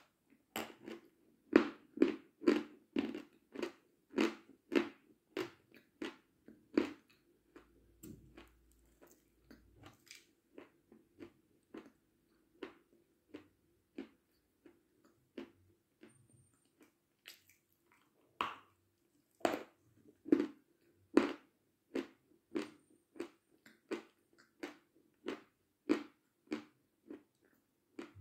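Chunks of white chalk bitten and chewed close to the microphone: crisp, regular crunches about two a second, thinning out for several seconds in the middle, then a fresh hard bite and steady crunching again.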